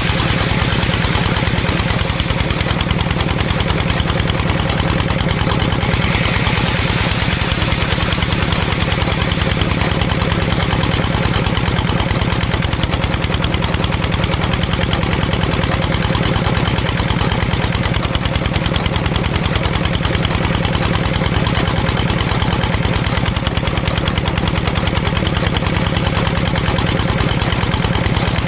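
Small engine running steadily at an even speed, with a fast, regular beat.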